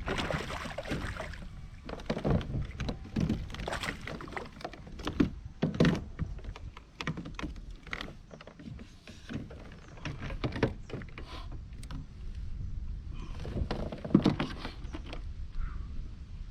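Irregular knocks, clunks and rattles of fishing gear being handled against a plastic kayak hull, over a low rumble of wind on the microphone.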